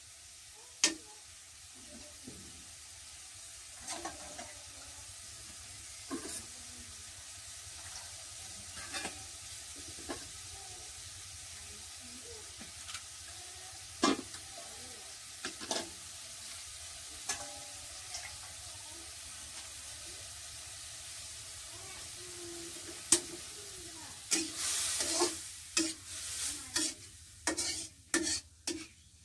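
Food sizzling in oil in a wok, with a steady hiss and a metal spatula now and then clinking and scraping against the pan. Near the end the stirring gets busier, with a quick run of louder scrapes and clanks.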